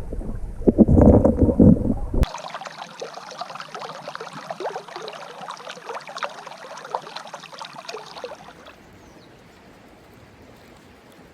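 Close water sloshing and splashing in a shallow river, with a few loud surges in the first two seconds. It changes abruptly to flowing water babbling over rocks, which drops to a faint steady hiss near the end.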